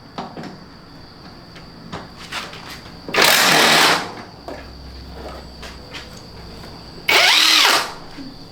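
Handheld power driver run in two short bursts about a second each, the second with its motor pitch rising and falling, undoing fasteners on a scooter being taken apart. Small tool clicks and knocks come between the bursts.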